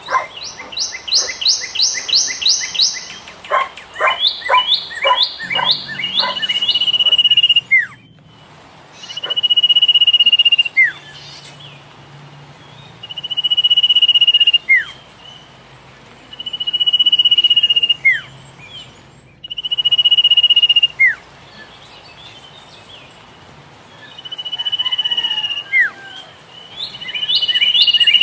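Philippine pied fantail calling: a run of quick, sharp chirps over the first several seconds, then long steady whistles that swell in loudness and end in a quick downward flick, repeated about every three to four seconds.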